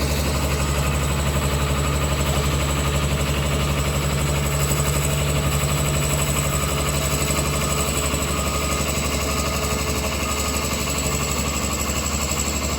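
2012 CMI C250 Hurricane mulcher's diesel engine running steadily, holding one even speed throughout.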